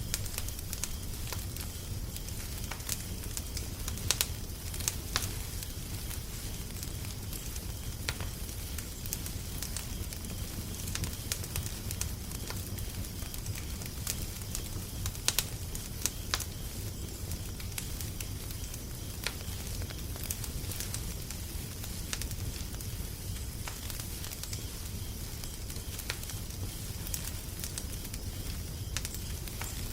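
Wood fire crackling: irregular sharp pops and snaps, a few louder ones about four, five and fifteen seconds in, over a steady low rumble and hiss.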